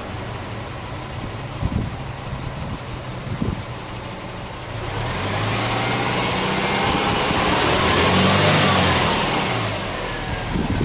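Subaru Impreza WRX STi's turbocharged flat-four boxer engine idling, with two brief thumps. About five seconds in it is revved in neutral, rising slowly in pitch, and near the end it falls back to idle.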